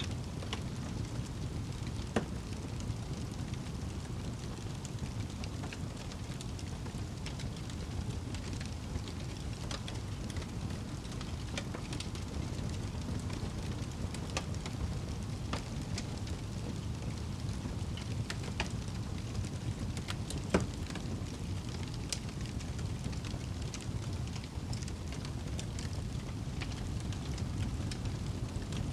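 Wood fire crackling in a fireplace: scattered small pops over a steady low rumble, with two louder pops, one about two seconds in and one about twenty seconds in.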